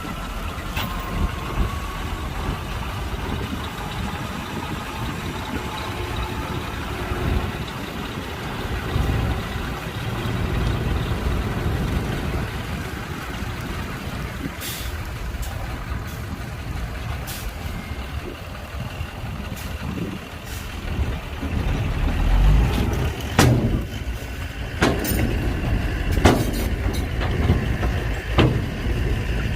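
Heavy diesel machinery running with a steady low rumble. Sharp knocks or clanks come now and then, more of them in the last few seconds.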